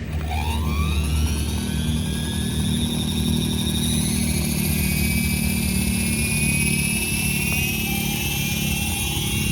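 Tarot 450 flybarless RC helicopter's brushless electric motor spooling up: a whine rising in pitch over the first few seconds, then holding steady over the low drone of the spinning rotor.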